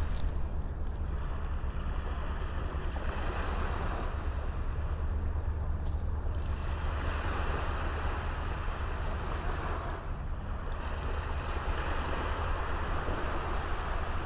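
Small sea waves washing onto a beach, the surf swelling and easing every few seconds, with wind rumbling on the microphone.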